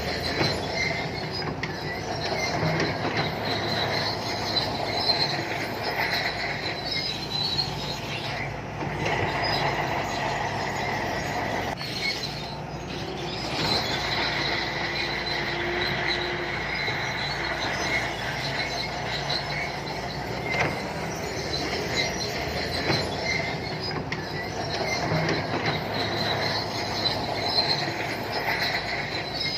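SANTUI crawler bulldozer's diesel engine running steadily while its steel tracks squeal and clank as it pushes mud.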